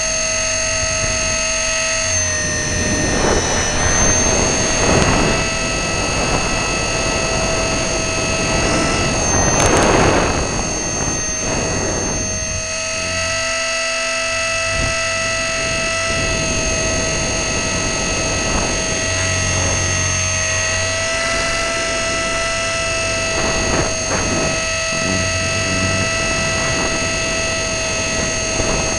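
E-flite Blade 400 RC helicopter's electric motor and gears heard up close through its onboard camera: a steady high whine with slight dips in pitch. Rushes of rotor and wind noise come and go, the loudest about ten seconds in.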